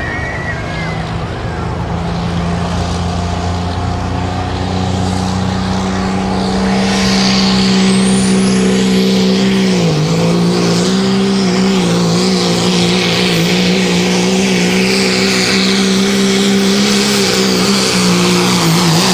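Ford diesel 4x4 pulling truck's engine running hard under load on a sled pull, its pitch holding steady. A high whine climbs and then holds. About halfway through, the engine note dips briefly and recovers.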